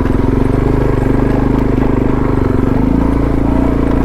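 Suzuki DR650's single-cylinder four-stroke engine running steadily under load as the bike climbs a dirt road. Its note changes about three seconds in.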